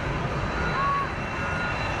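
Jet airliner engine noise: a steady rush with faint high whining tones, and a brief higher tone about a second in.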